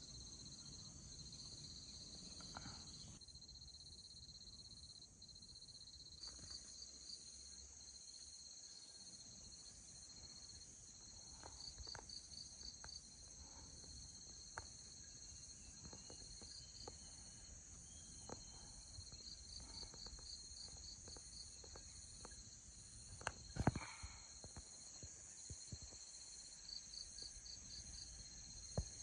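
Faint chorus of field insects, cricket-like, trilling steadily high up, with short runs of rapid chirps every few seconds. A few light clicks sound through it, and a sharper knock comes a little past two-thirds of the way in.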